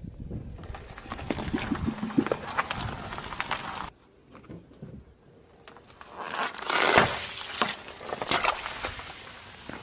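A car tyre rolling over and crushing objects: dense crackling and crunching that stops suddenly about four seconds in, then a second crunch that builds up to its loudest about seven seconds in and tails off into scattered crackles.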